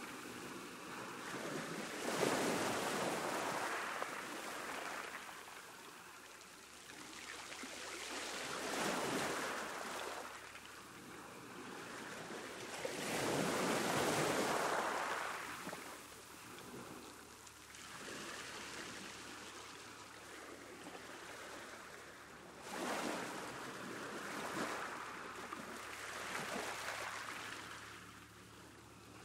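Ocean waves breaking and washing up a beach, with several surges of surf that swell and recede every few seconds.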